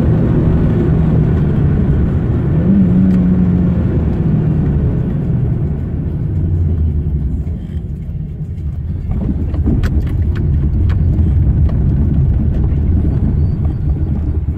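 Mazda 323's 1.3-litre four-cylinder petrol engine pulling along with tyre and road noise, heard from inside the cabin. About seven seconds in the engine note drops and quietens, then picks up again at a lower pitch. A few sharp clicks follow in the second half.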